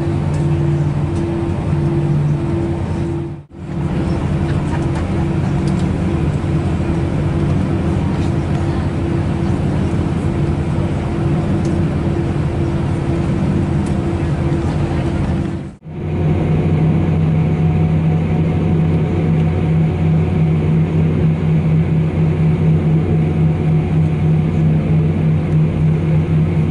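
Airbus A319 cabin noise on the ground with the jet engines running at idle: a steady, loud hum with several held tones over a rush of noise. The sound breaks off briefly twice, and its tone changes slightly after each break.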